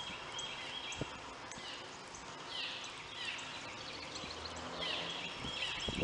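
Birds chirping: a series of short calls that sweep downward, over a steady background hiss.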